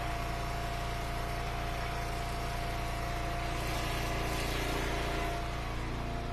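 Engine of an Eastonmade wood splitter running steadily, with a slightly louder, hissier stretch between about three and a half and five seconds in.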